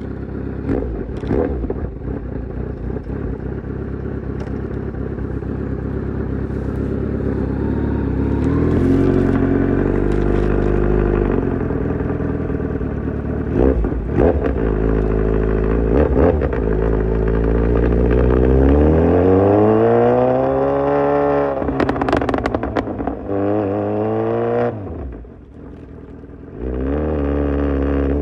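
Kawasaki Z900's inline-four engine through an Austin Racing full exhaust system, under way and accelerating: its pitch climbs in long rising runs, broken by a few sharp cracks. Near the end it drops away briefly before picking up again.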